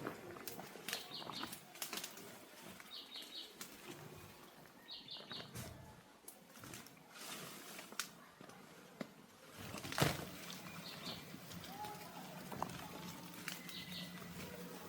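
A bird's short chirps, a quick cluster of high notes repeated about every two seconds, over scattered knocks and rustling, with one sharper knock about ten seconds in.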